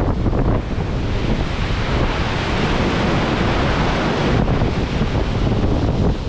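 Storm wind buffeting the microphone over the rush of heavy waves, 4 to 6 metres high. The hiss swells through the middle and eases a little past four seconds in.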